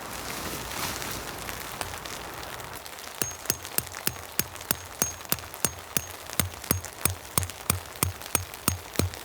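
Steady rain pattering on a surface. From about three seconds in, a fast, even run of sharp knocks, about three a second, stands out loudly over the rain.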